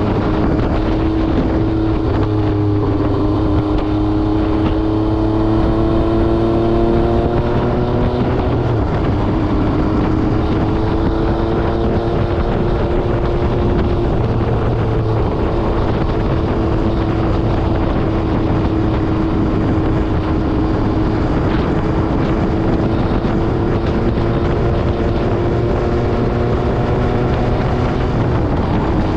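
MV Agusta Brutale 800RR's three-cylinder engine through an SC Project exhaust, pulling at moderate revs while riding; the pitch shifts a few times in the first fifteen seconds, then holds nearly steady. Wind noise on the microphone runs underneath.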